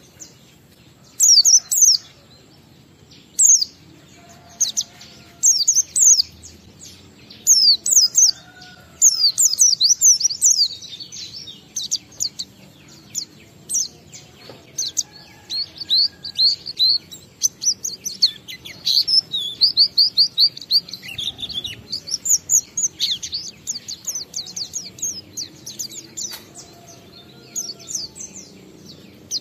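A white-eye (pleci) singing in high, quick chirps. It starts in short bursts of falling notes, then about ten seconds in breaks into a long, unbroken run of rapid notes lasting over ten seconds. This is the continuous 'ngalas' song, then back to shorter bursts near the end.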